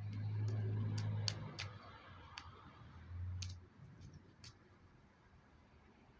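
About seven sharp clicks or taps, irregularly spaced over the first four and a half seconds, over a low hum that fades out by about four seconds in.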